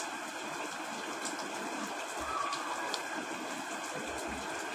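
Steady heavy rain: an even hiss with scattered faint drop ticks.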